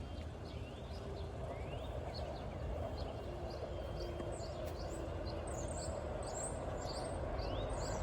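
Small birds chirping: many short rising chirps and ticks, over a steady background rumble that grows slowly louder toward the end.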